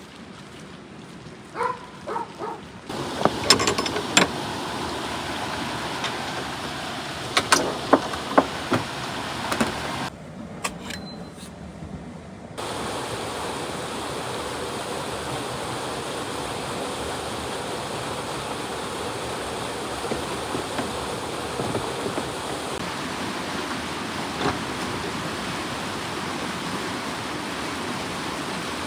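Steady hiss of falling rain. Scattered sharp knocks and clicks come in the first ten seconds or so, and the sound changes abruptly a few times.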